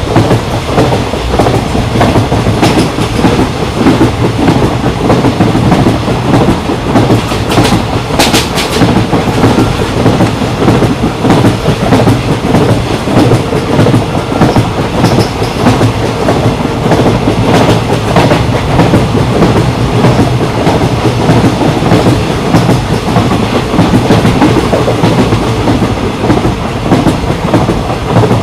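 Moving passenger train running steadily: continuous rumble of the coaches with the clickety-clack of wheels over rail joints.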